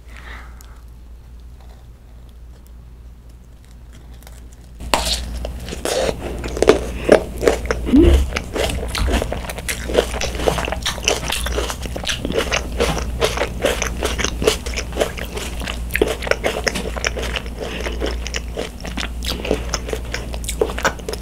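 Close-miked bite into a thick, overfilled macaron with a green grape in its filling about five seconds in, followed by steady crunching and wet chewing full of small crackles.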